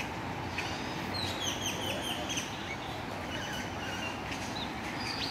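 Small birds chirping: a few runs of short, high, quickly repeated notes over steady outdoor background noise.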